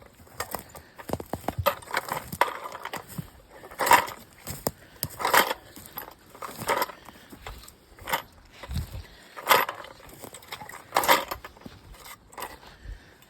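Footsteps crunching through brush and forest litter, loud crunches coming every second or so, with a small noisemaker rattling along with the walk to warn wildlife of his approach.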